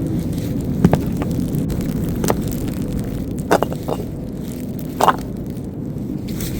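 Steady low wind rumble, with about five short sharp knocks scattered through it.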